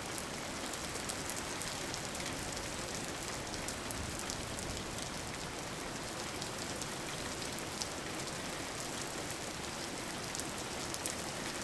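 Steady rain falling, an even hiss of rain with fine patters of individual drops.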